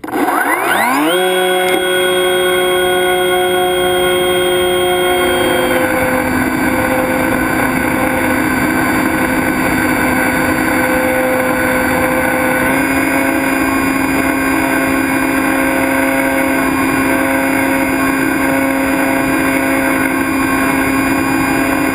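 Electric motor and propeller of a foam RC airplane, heard from its onboard GoPro. The motor spools up over about the first second to a steady whine, then changes pitch twice as the throttle is moved, about five seconds in and again around thirteen seconds.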